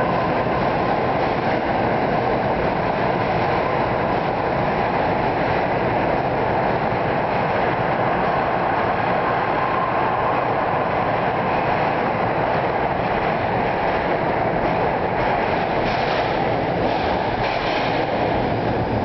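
NJ Transit Arrow III electric multiple-unit train pulling out and rolling past: a steady, loud rumble of steel wheels on rail, with a faint whine, and some clicking over rail joints near the end.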